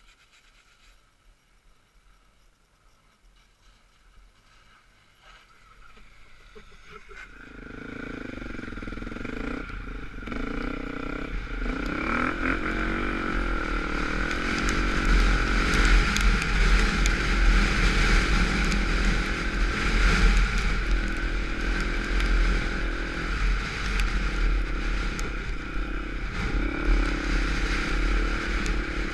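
Dirt bike engine, faint at first, growing louder over several seconds, then running steadily with its pitch rising and falling under the throttle.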